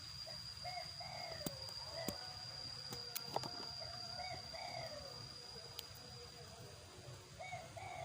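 A bird calling in short repeated phrases, four times, over a steady high-pitched whine, with a few sharp clicks in the first half.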